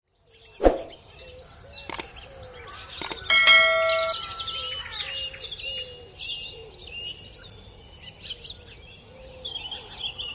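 Small birds chirping and singing. A sharp knock comes near the start and two more come about two and three seconds in. A bright bell-like ding then rings for about a second.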